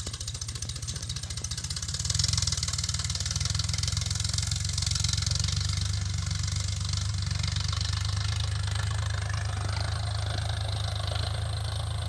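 Tractor engine running steadily while ploughing, with a low drone that grows louder about two seconds in.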